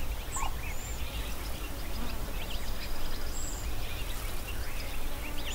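Natural outdoor ambience: scattered short bird chirps and whistles over a steady low rumble.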